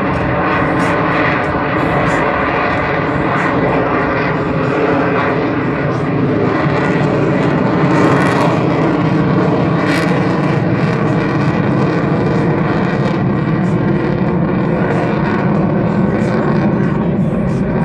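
F-22 Raptor's twin Pratt & Whitney F119 turbofan jet engines running loud and steady during a low, slow pass, a dense rumble with a high whine over it.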